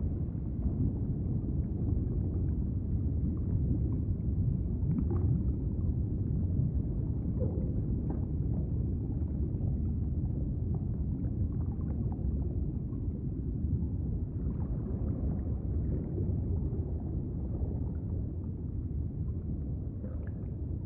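Steady low rumbling noise, with faint scattered clicks and brief higher sounds over it.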